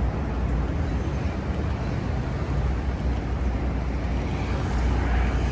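Wind buffeting the microphone in a steady low rumble, over the din of street traffic.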